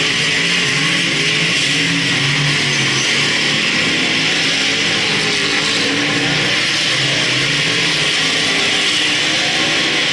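Several speedway race car engines running on the track, a loud continuous sound with engine notes rising and falling as the cars lap.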